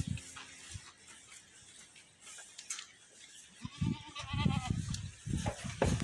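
A goat bleats once, a wavering call about four seconds in, with low rumbling and knocks around it toward the end.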